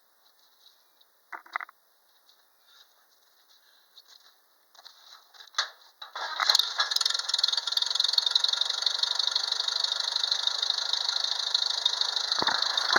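1940 Farmall A's four-cylinder engine being hand-cranked: after a few brief clunks, it catches about six seconds in and runs steadily at half throttle and half choke. It is freshly primed after its fuel line was drained for the winter.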